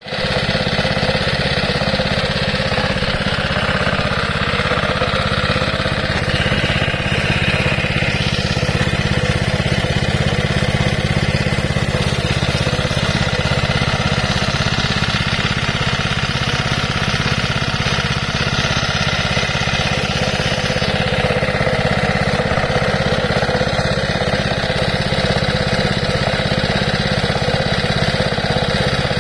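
Tiger engine-driven air compressor with a Robin EY08D small single-cylinder four-stroke engine running at a steady speed, with no change in pitch or level.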